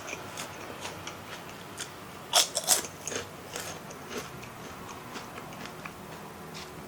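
Crunching and biting into kerupuk crackers, close to the microphone: a run of crisp cracks, loudest a little over two seconds in, thinning to a few small crackles later on.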